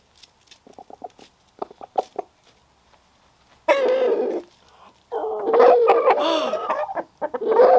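Roosters giving predator alarm calls at a bald eagle overhead: first a quick run of short clucks, then loud, drawn-out screeching calls about four seconds in, and again from about five seconds on.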